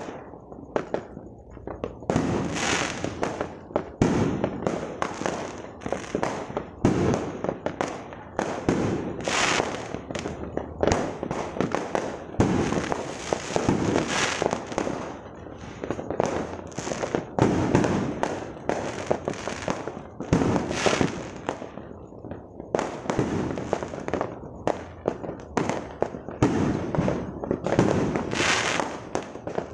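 Aerial fireworks bursting overhead in a rapid run of bangs, the loudest coming every second or two with smaller bangs packed between them.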